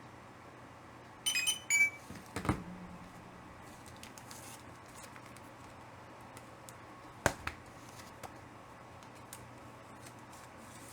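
Handling noises at a desk: a few brief high-pitched squeaks a little over a second in, then a knock, and a sharper knock about seven seconds in, over a steady low hum.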